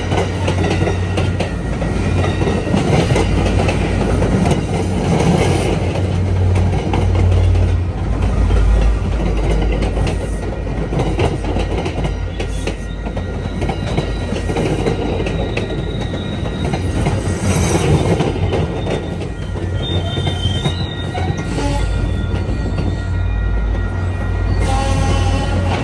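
MBTA commuter rail train, coaches and a track geometry car, rolling past close by: a steady, loud rumble of wheels on rail with high wheel squeal coming and going as the cars take the curve.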